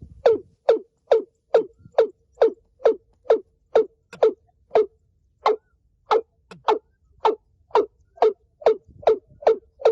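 Watercock calling: a steady series of short notes, about two a second, each dropping in pitch, with a brief pause midway.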